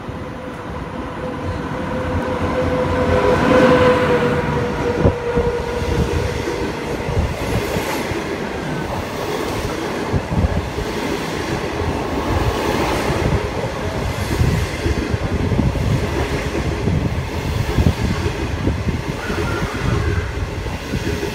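Locomotive-hauled passenger train passing close along the platform. A steady tone is heard as the locomotive draws near, and it is loudest about four seconds in. Then the coaches roll past with a low rumble and rhythmic wheel clatter.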